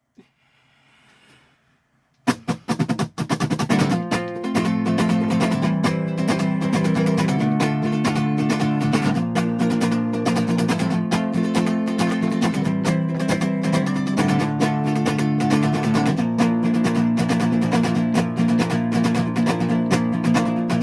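Strummed guitar playing chords in a steady rhythm without singing, starting about two seconds in after a brief near-silent gap.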